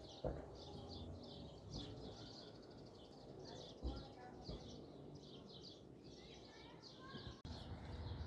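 Small birds chirping over and over in quick high clusters, over a low rumbling background noise with a few brief knocks.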